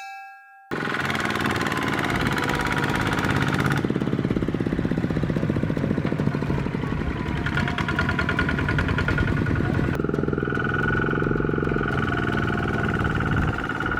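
Mini tractor's engine running under load in mud, a steady fast rhythmic beat that changes abruptly about four and ten seconds in. A brief ringing tone sounds just before the engine comes in.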